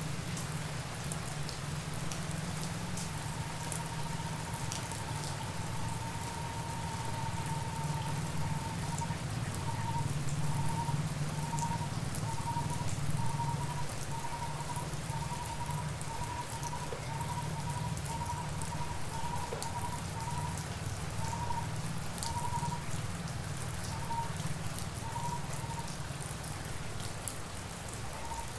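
Steady tropical rain falling on surfaces, with many small drop ticks. Through it a thin high tone holds, then breaks into a run of short beeps that grow further apart and stop shortly before the end.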